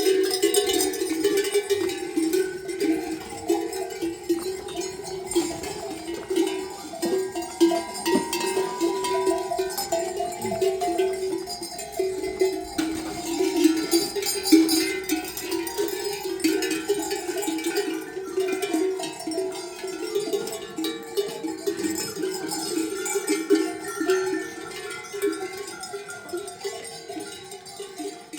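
Many livestock bells on a flock clanking continuously, their uneven overlapping ringing never stopping.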